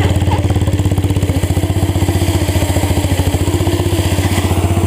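Old tractor engine running with a full open exhaust pipe, a loud, fast, even string of exhaust pulses.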